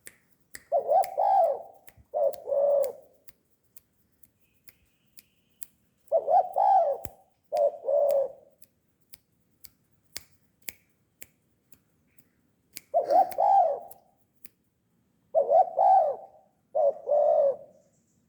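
Spotted dove (tekukur) cooing: four phrases of low, rolling coos, most in two parts, with a few seconds between them. Faint sharp clicks sound between the phrases.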